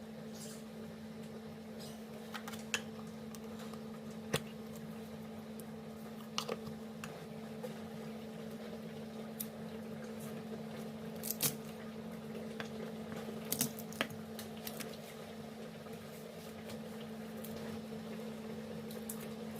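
Kitchen food-preparation handling: scattered light clicks and knocks, several in quick succession a little past the middle, over a steady low hum.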